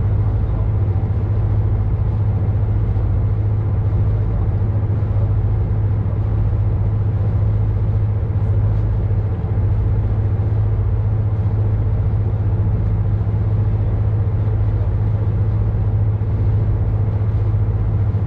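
A boat's engine running at constant speed: a steady low drone with evenly spaced overtones that does not change.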